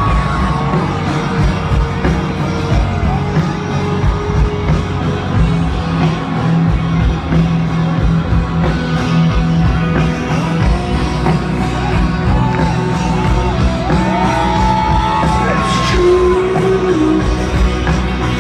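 Live stadium rock music from a band, with sung melody and crowd shouts over a steady loud bass and drums.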